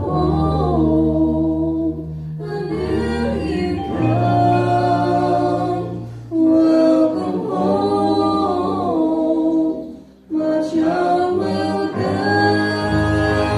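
A vocal group singing unaccompanied in harmony, with held low notes under the melody. There is a brief break about ten seconds in.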